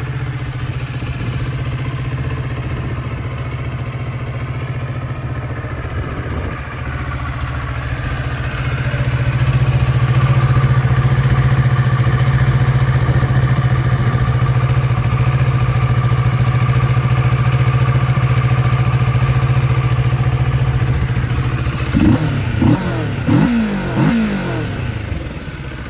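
2022 Kawasaki Ninja 650's parallel-twin engine idling steadily, growing louder about nine seconds in. Near the end the throttle is blipped in several quick revs.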